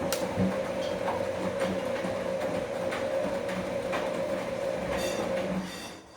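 Bosch Komfort-Klasse washing machine running: a steady motor hum with scattered clicks and knocks from the turning drum. It stops about five and a half seconds in.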